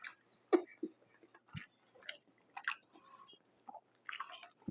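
Close-miked chewing of pizza: a string of short, separate wet, crunchy mouth sounds.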